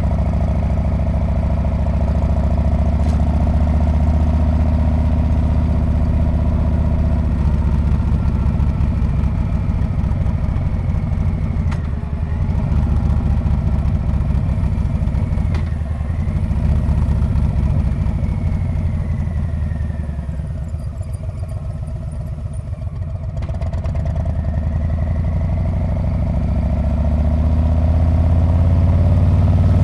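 Harley-Davidson Street Bob's V-twin engine and exhaust running steadily under way. The engine note falls away and quietens past the middle, then builds and grows louder again toward the end as the bike accelerates.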